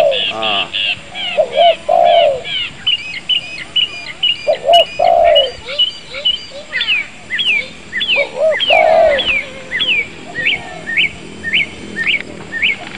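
Birdsong: a bird repeats short, high falling chirps, about two a second, with phrases of lower pitched notes breaking in now and then.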